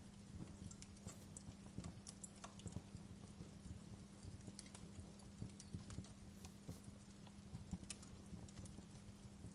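Fireplace fire crackling softly, with irregular sharp pops and snaps over a faint steady low hum.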